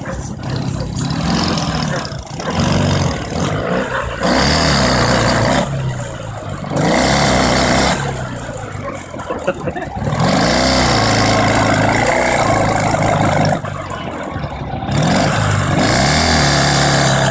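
Dnepr 10-36 motorcycle's flat-twin engine revving hard in about five surges with short drops between, working under load while ploughing garden soil.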